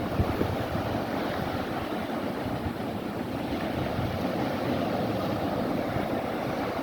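Wind buffeting the microphone over a steady wash of sea waves, with a brief gust near the start.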